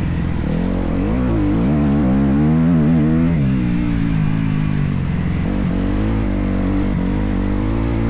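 Motocross dirt bike engine running on the track, its pitch rising and falling repeatedly as the rider works the throttle.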